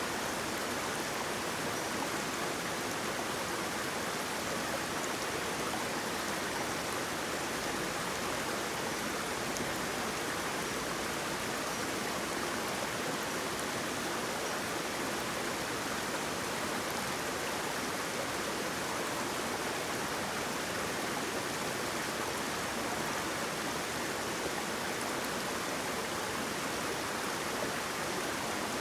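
Waterfall: a steady, unchanging rush of falling and flowing water.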